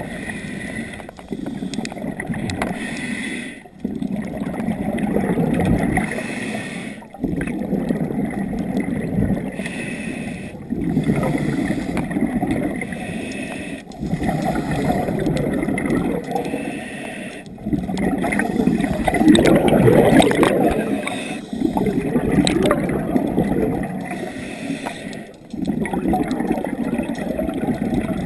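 Scuba diver breathing through a regulator underwater: each exhalation a burst of gurgling bubbles, with a short dip between breaths, in a steady cycle of about one breath every three and a half seconds.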